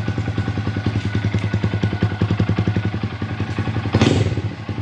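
A 2022 Honda Grom's single-cylinder four-stroke engine idling through a Ransoto aftermarket exhaust with its baffle removed, a fast even rumble of exhaust pulses. About four seconds in, a quick blip of the throttle gives a brief louder rev.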